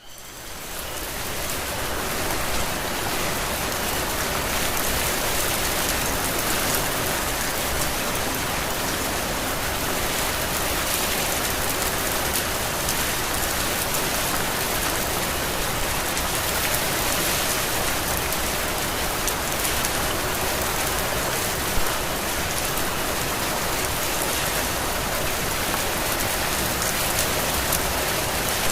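Heavy rain falling steadily on foliage and surfaces, a dense even hiss that swells up over the first second or two and then holds steady.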